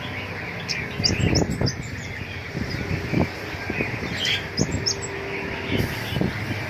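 Caged birds chirping in a bird shop: clusters of short, high calls, some sweeping quickly down in pitch, over a background of other birds, with several sharp knocks or wing flutters.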